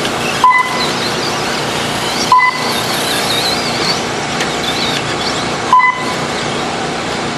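Radio-controlled off-road trucks racing on a dirt track, their motors whining and rising and falling in pitch over a steady noisy background. Short electronic beeps sound three times, typical of the lap-counting system as trucks cross the timing line.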